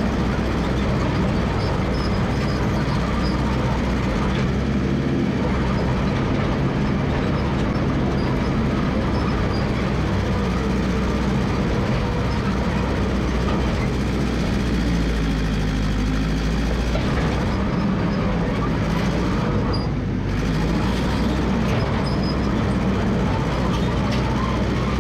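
Massey Ferguson MF 300 crawler dozer's engine running steadily as the machine works, its pitch shifting a little around the middle.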